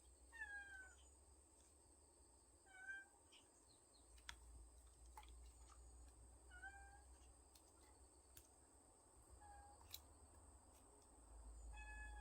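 Kittens meowing faintly: five short, high-pitched mews a few seconds apart, each dipping slightly in pitch.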